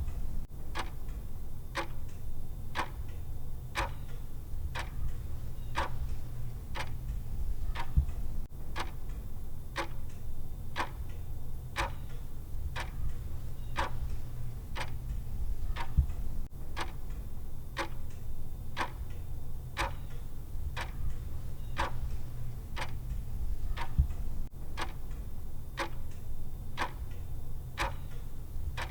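Clock-style ticking of a countdown timer, about two even ticks a second, over a low steady hum.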